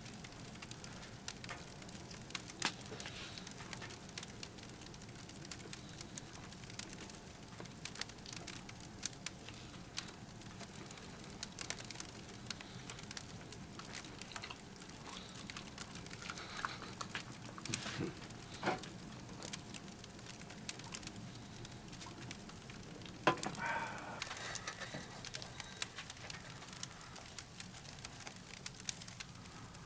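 Firewood crackling in a wood stove: irregular sharp pops and ticks over a soft steady hiss, with a louder knock about 23 seconds in.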